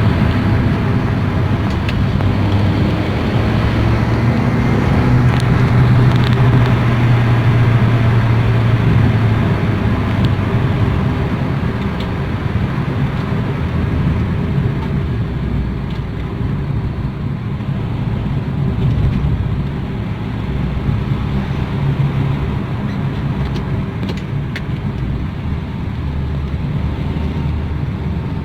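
Honda Brio Satya car driving at a steady pace, its four-cylinder engine humming over tyre and road noise. The engine tone holds steady, then grows weaker and the overall sound drops slightly about halfway through.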